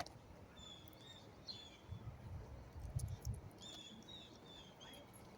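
Songbirds chirping faintly in two short runs of quick high chirps, over a soft outdoor background with a few low dull bumps in the middle.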